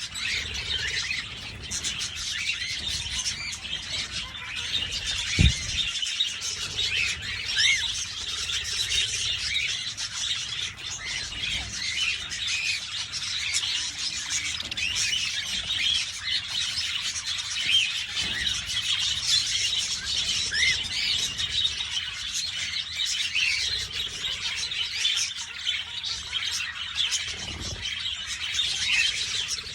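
A flock of budgerigars chattering and chirping continuously, many short warbling calls overlapping. A single brief low thump about five seconds in.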